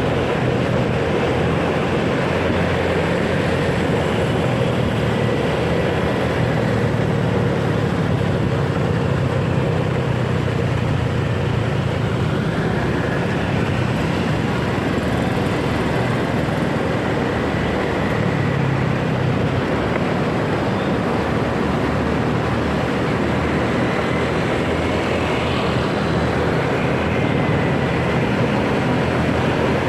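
Motorcycle running steadily on the move, with wind rush and surrounding road traffic noise.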